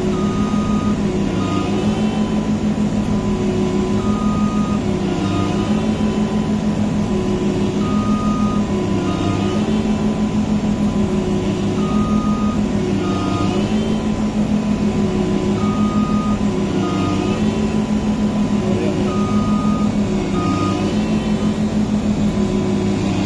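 Massey Ferguson tracked combine harvester's engine running steadily and loud. A beeping alarm repeats over it as a long beep then a short one, about every four seconds.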